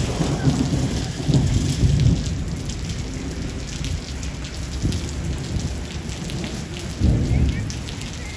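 Steady rain with rolling thunder. A low rumble runs through the first two seconds and dies away, a weaker one follows later, and a sharper rumble breaks in about seven seconds in.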